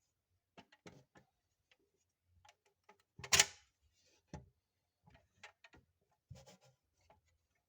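Irregular small clicks and taps from a die-cast Mercedes-Benz Sprinter model van being handled, about a dozen in all, with the sharpest click a little past three seconds in.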